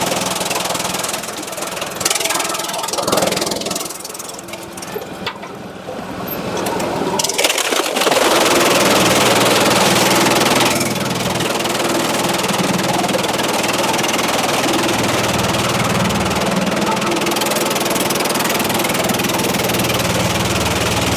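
Engine-driven sawmill machinery running steadily with a low hum. About eight seconds in it turns louder and harsher for a couple of seconds, then settles back to a steady run.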